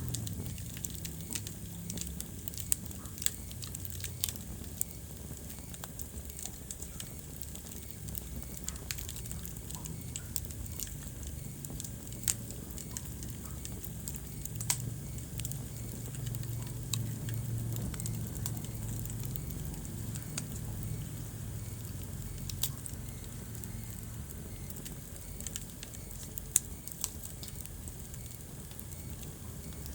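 Wood fire burning in a fireplace, crackling with irregular sharp pops, a few of them much louder, over a low steady rumble of flames.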